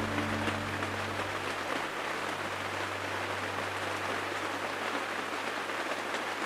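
Steady rain: an even hiss with scattered drops ticking. A low hum and a few held tones fade out in the first second or two.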